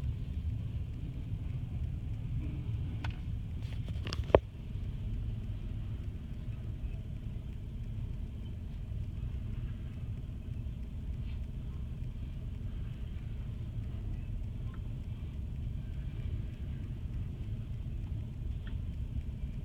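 Long, slow train rolling past with a steady low rumble. A few sharp clicks sound around three to four seconds in, the loudest a single sharp knock.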